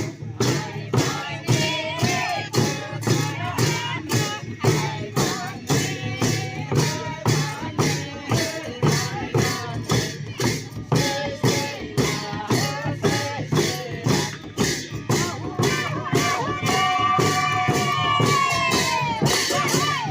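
Sakela festival music: a steady beat of sharp percussion clashes about twice a second, with singing over it. Near the end a voice holds a long, wavering note.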